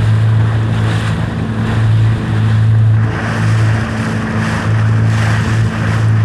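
Watercraft engine running at a steady pace, a low even hum, with water rushing and wind buffeting the microphone.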